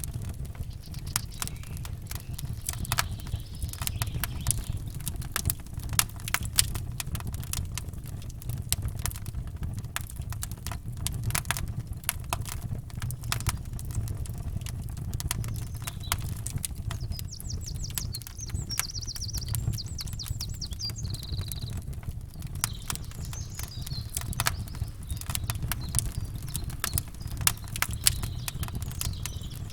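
Campfire crackling and popping steadily over a low, even rumble. A bird sings a rapid, high trill about two-thirds of the way through, with a few fainter chirps after it.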